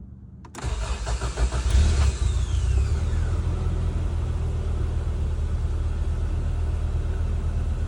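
1988 Toyota Hilux Surf's engine started from cold after sitting two or three days: a click, about a second of cranking, then it catches with a brief rev. A whine falls in pitch as it settles into a steady idle.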